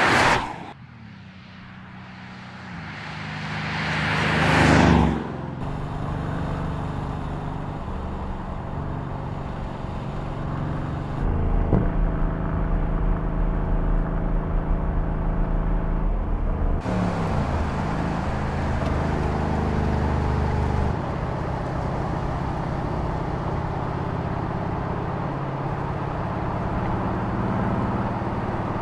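Mercedes-AMG GLC 63 S's 4.0-litre twin-turbo V8 driving past: one pass-by swells and cuts off about five seconds in, then the engine runs at a steady cruising note across several shots, with a brief change in pitch about two-thirds of the way through.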